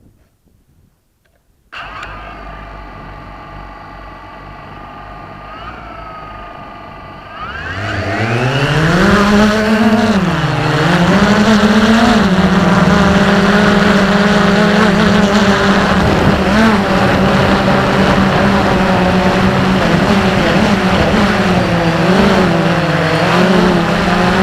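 XK Detect X380 quadcopter drone's motors starting up about two seconds in and spinning at idle. A few seconds later they power up sharply into a loud, steady whine whose pitch dips and recovers a few times.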